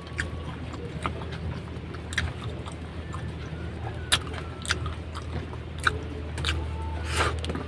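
Close-up chewing of crispy breaded chicken katsu, with sharp crunches about once a second and a longer crunch near the end, over a steady low hum.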